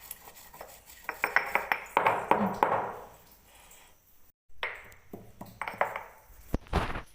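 Spices being ground by hand on a traditional stone grinder: the grinding stone clicks and knocks against the side of the stone basin in runs of sharp taps, with a louder cluster of knocks near the end.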